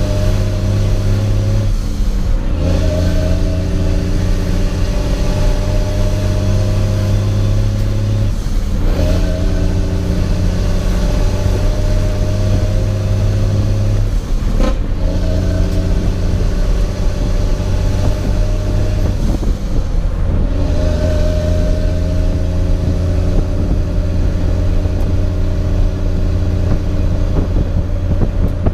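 Heavy truck's diesel engine pulling through the gears of an 18-speed manual transmission. Its steady drone breaks off briefly and resumes four times, about every six seconds, as each gear change is made, with a sharp click at one of the shifts about halfway through.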